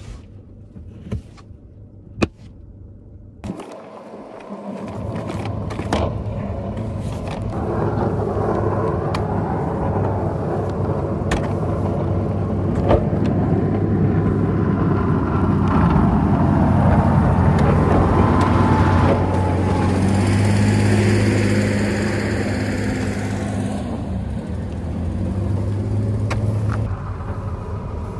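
Car running, heard from inside the cabin: a few clicks, then about three and a half seconds in a steady low hum and rushing noise rise and hold.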